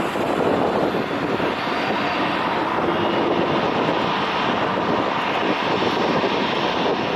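An airliner's engines running at takeoff power, a loud, steady noise that holds its level throughout.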